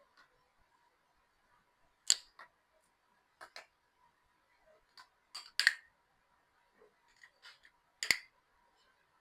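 Close-up eating sounds: a scattered series of short, sharp clicks and smacks, the three loudest about three seconds apart.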